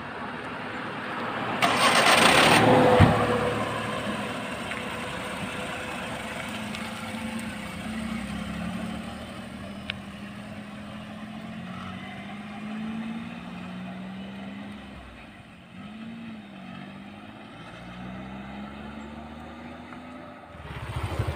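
Maruti Suzuki 800's small three-cylinder petrol engine pulling away, with a loud rush of noise about two seconds in. The engine hum then rises and falls in pitch through the gear changes and fades as the car drives off down the road.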